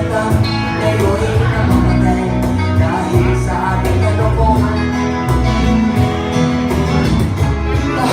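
Live acoustic band music: guitars and bass guitar over a steady beat, with singing.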